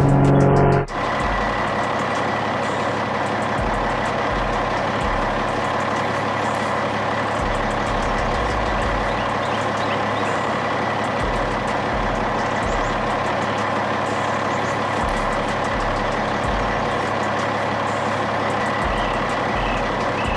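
Heavy truck engine running steadily, with a thin, steady high whine over it. A louder sound in the first second cuts off abruptly.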